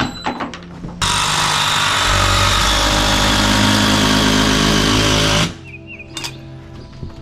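Power tool running steadily for about four and a half seconds, then stopping abruptly, after a few light knocks.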